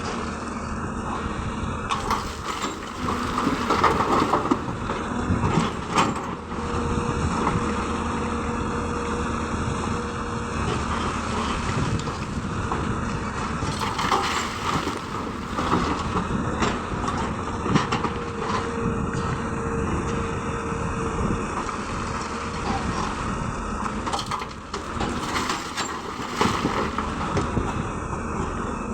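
Hyundai excavator's diesel engine running steadily while stone clatters and scrapes against the bucket and steel truck bed, in spells several times over, as the excavator loads rock into a dump truck.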